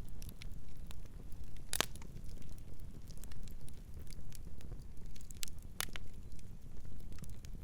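Wood campfire crackling: scattered sharp pops and snaps over a steady low rumble, with two louder pops, one about two seconds in and another a few seconds later.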